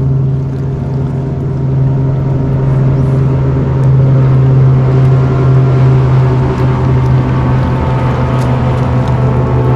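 Bass boat's outboard motor running steadily under way, a loud constant low hum with overtones, its level climbing slightly over the first few seconds and then holding.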